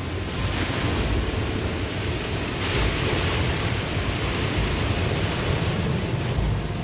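Waterfall: a steady rush of falling water with a low rumble underneath.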